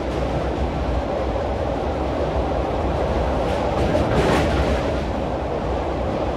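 Passenger train running over a steel truss rail bridge, heard from inside a coach as a steady rumble and rattle, with a brief louder burst about four seconds in.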